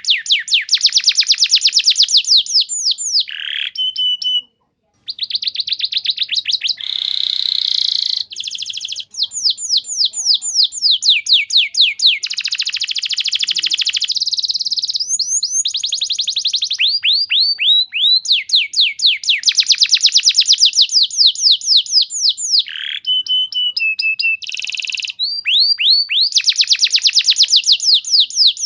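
Domestic canary singing a long, fast song: phrases of rapidly repeated notes, each phrase a quick trill of the same note, changing from one trill to the next with brief pauses between, including a short silence about four and a half seconds in.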